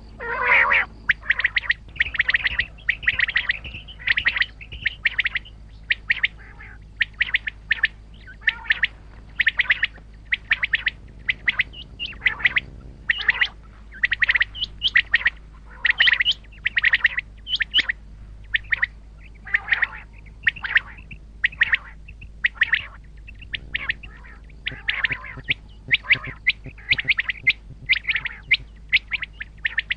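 Common quail calling: short, sharp call notes repeated over and over, often in quick runs, over a faint steady low hum.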